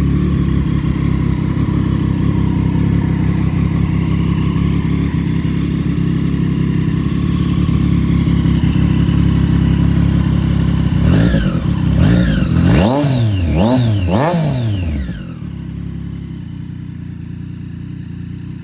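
Triumph Street Triple S three-cylinder engine through an SC Project aftermarket exhaust, idling steadily, then revved in several quick throttle blips, each rising and falling in pitch, before it drops back to a quieter low note.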